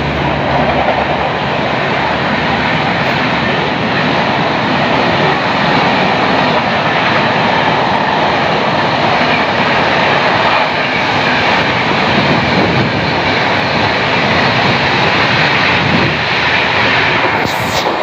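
Express train passing close by at high speed, around 130 km/h: a steady, loud rush of wheel and wind noise from the coaches going by.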